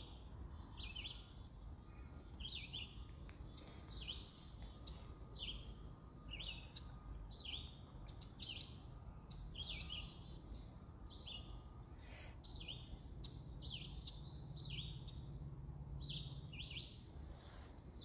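A bird calling over and over: short high chirps, each falling in pitch, about once a second, faint over a low steady background noise.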